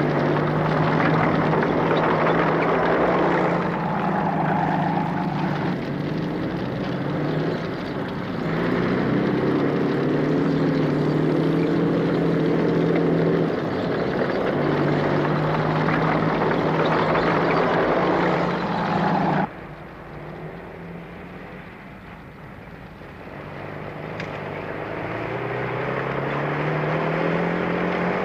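Engine sound effect of a Thunderbird rescue craft in flight: a steady, whining hum that cuts to a much quieter sound about two-thirds of the way through, then builds up again.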